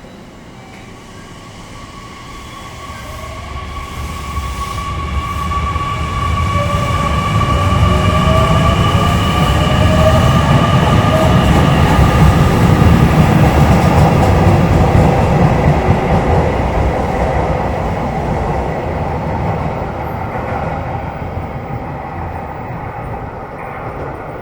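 JR Kyushu 813 series electric multiple unit running past on the rails. Its rumble swells to a loud peak about halfway through, then eases off, with steady high-pitched whining tones above it.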